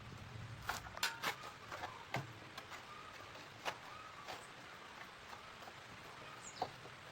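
Scattered light clicks and knocks of hand tools and parts being handled, about half a dozen at uneven intervals, the loudest a pair about a second in.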